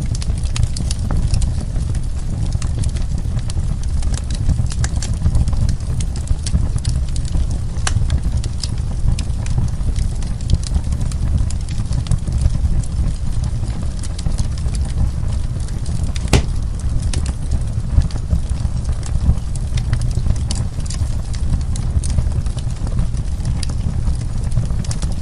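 Wood fire burning in a fireplace: a steady low rumble of the flames with frequent irregular crackles and pops, one sharper pop about two thirds of the way through.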